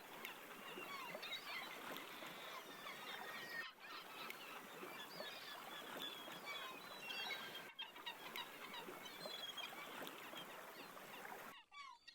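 Many small birds chirping and twittering at once over a steady outdoor hiss. The sound dips out briefly twice.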